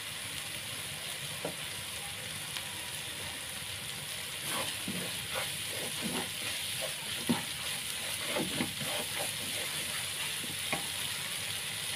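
Ground spice paste sizzling steadily as it fries in a pan over medium heat. From about four seconds in it is stirred, with irregular scrapes and knocks against the pan.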